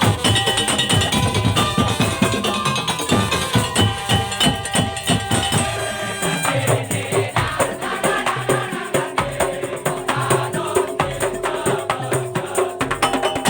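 Madurese daul (tong-tong) ensemble playing live: fast, dense percussion over held pitched notes, with the highest sounds dropping away about six seconds in.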